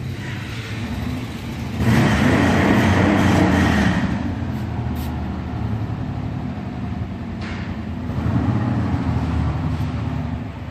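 Harley-Davidson Sportster 1200's Evolution 1200cc V-twin running through Python exhaust. It is revved hard about two seconds in and held for a couple of seconds, then revved again more mildly near the end.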